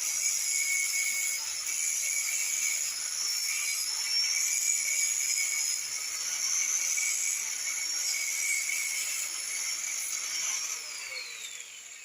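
Electric grinder running at speed with a steady high-pitched whine. It is switched off near the end, and its pitch falls as it winds down.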